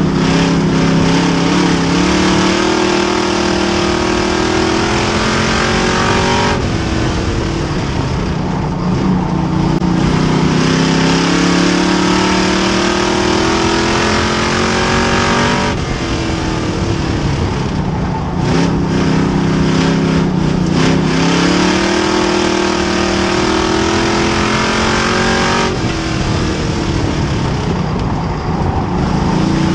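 Race car engine running hard under load, its pitch climbing steadily and then falling away sharply three times, about ten seconds apart, as on repeated laps.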